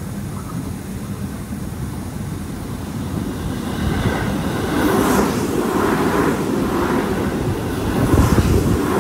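Seibu Ikebukuro Line electric commuter train running through the station without stopping. The rumble of its wheels on the rails grows louder from about three seconds in as it draws level and passes close by, with sharper clatter about halfway through and again near the end.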